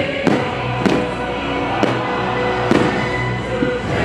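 Fireworks going off in several sharp bangs about a second apart, over loud show music played through the park's speakers.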